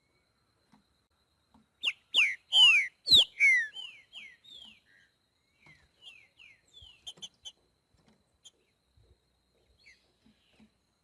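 Green-winged saltator (trinca-ferro) singing: about two seconds in comes a loud phrase of clear, falling whistled notes, which trails off into a run of softer falling notes.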